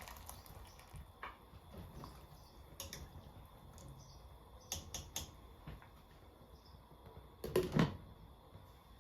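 Objects being handled in a kitchen: scattered light clicks and knocks, with a heavier knock about three-quarters of the way through.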